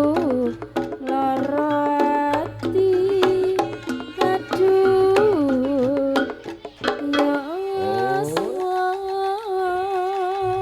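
Live campursari music: a voice with hand-drum (kendang) strokes and pitched accompaniment. About eight seconds in, the pitch slides upward and settles into one long held note.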